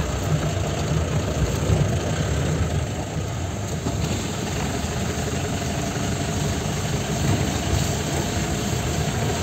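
Steady running of a vehicle's engine and road noise, heard from inside the cabin while the vehicle is driven.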